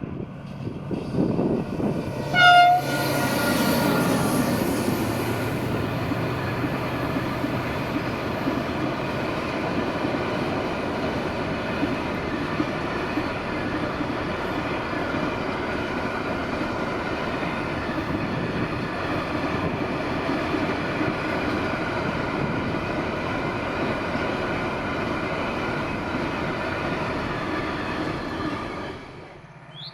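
A train passing close by on the curve. There is a short horn blast about two and a half seconds in, then a long, steady rumble and clatter of the wheels on the rails as the train rolls past, ending abruptly near the end.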